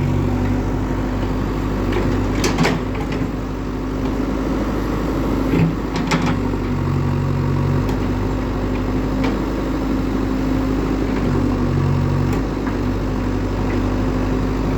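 Heavy diesel machinery running steadily, with a few sharp metallic knocks, two close together about two and a half seconds in and two more around six seconds.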